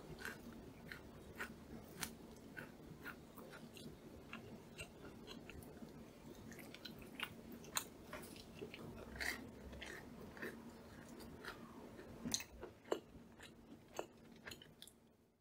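Someone chewing a crumbly oat and peanut crumble cookie, with soft, irregular crunches and crackles every second or so over a faint steady hum.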